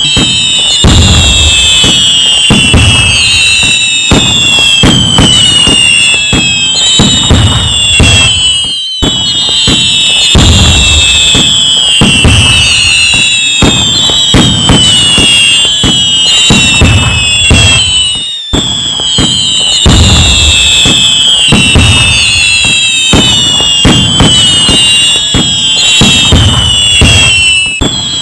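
Fireworks going off in a dense barrage: constant bangs and crackles overlaid with many high whistles falling in pitch. The same stretch of about nine and a half seconds repeats as a loop.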